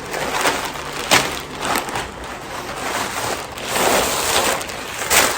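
Packaging rustling and crinkling with sharp crackles as clothes are taken out of it.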